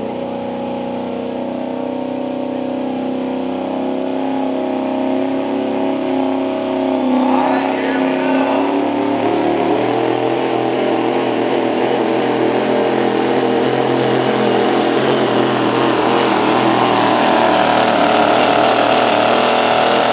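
A Light Pro Stock diesel 4WD pulling truck's engine running loud. About seven seconds in it changes to a rougher, harder-working sound, then keeps building in loudness as the truck pulls the sled under load.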